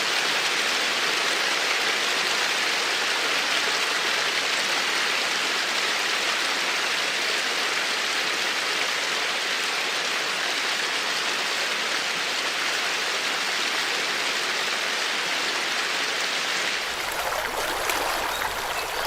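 Steady, dense rush of water. About seventeen seconds in, the sound changes and a low rumble joins it.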